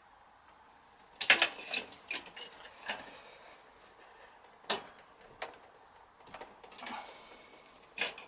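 Sharp clicks and knocks of hand tools and pipe fittings being handled on a workbench: a quick cluster about a second in, then a few single knocks and a short scraping rasp near the end.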